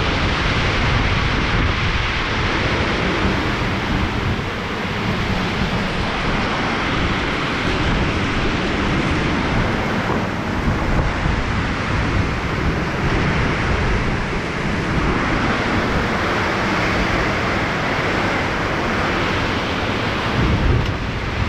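Heavy thunderstorm rain pouring steadily, with gusting wind buffeting the microphone.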